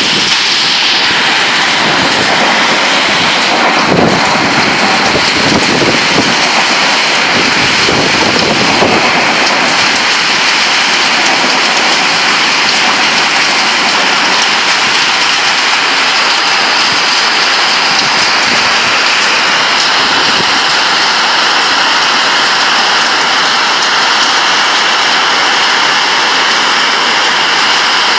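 Heavy rain pouring during a storm, a loud steady hiss, with low rumbling between about four and nine seconds in.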